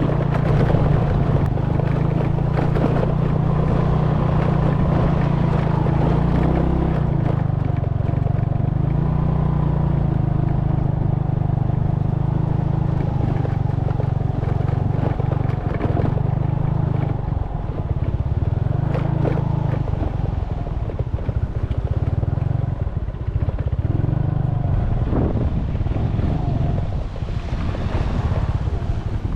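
Small boat's engine running steadily, easing off briefly a couple of times, then fading near the end.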